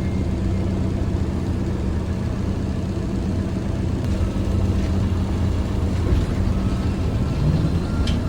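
ZiU-682G trolleybus running, heard from inside: a steady low rumble of the vehicle under way, with the traction motor's whine rising in pitch near the end as it picks up speed. A single click just before the end.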